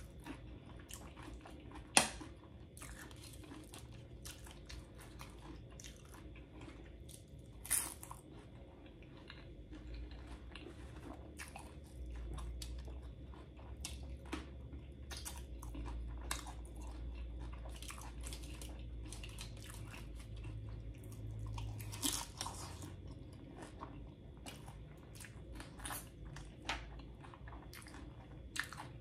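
A person biting and chewing loaded nachos, with frequent crisp crunches of tortilla chips and a few louder sharp clicks about 2, 8 and 22 seconds in.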